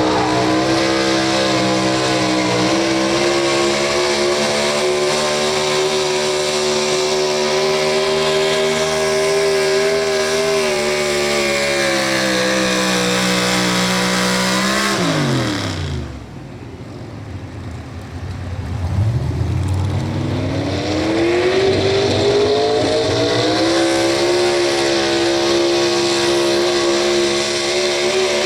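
Pro Stock 4x4 pulling truck's engine screaming at full throttle with a steady high pitch, which falls away sharply about halfway as the throttle is cut. It then revs back up and holds high again.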